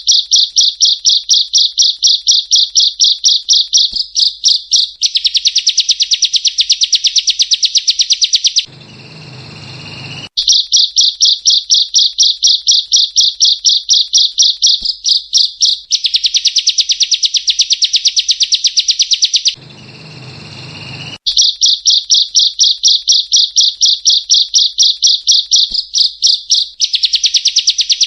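Looped masteran recording of a songbird's rapid, high, repeated chirps, about three a second, each run passing into a buzzier, harsher trill. The same clip restarts about every eleven seconds after a short break of low noise.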